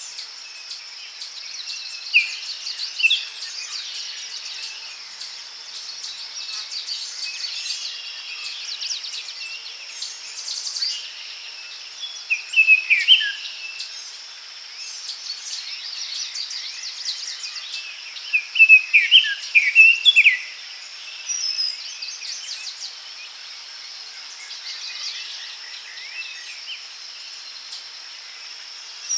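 Daytime forest ambience: several birds singing and calling over a steady high-pitched insect drone. The loudest bird phrases, with quick down-sliding notes, come a little before the middle and again about two-thirds of the way through.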